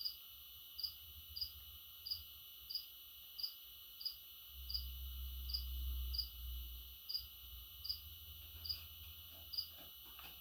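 A cricket chirping steadily, one short high chirp about every two-thirds of a second, over a faint steady high whine, with a low rumble through the middle.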